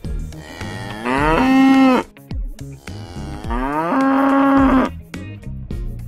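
A calf mooing twice: two long calls, each rising in pitch and then held steady, over background music with a steady beat.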